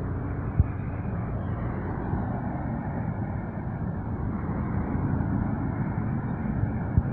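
Mercedes Actros MP4 truck's diesel engine running steadily as the truck drives, a low rumble, with two brief sharp knocks, one about half a second in and one near the end.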